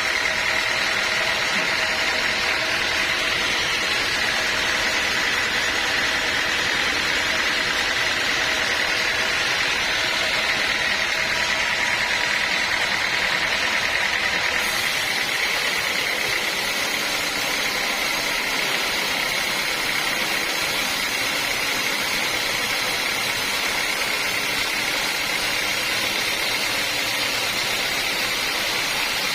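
Sawmill machinery running steadily: a continuous whining hiss with no breaks. The sound changes slightly about halfway through.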